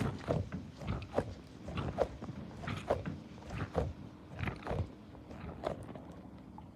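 A cat close to the microphone making irregular wet mouth sounds, like chewing, over a low steady purr.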